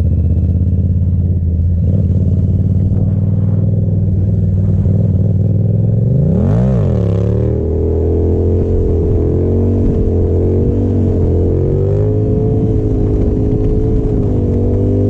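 Yamaha FZ-07's parallel-twin engine running steadily. It is revved up and straight back down once about six and a half seconds in, then runs on at a slightly higher, gently wavering pitch.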